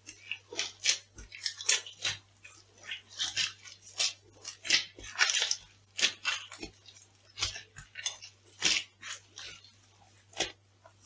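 Food being crushed underfoot: an irregular run of sharp crunches and crackles, several a second, with louder snaps scattered through.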